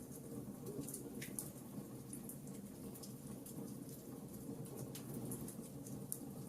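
Wood fire crackling with scattered sharp pops, one stronger about a second in, over a steady low hiss of rain.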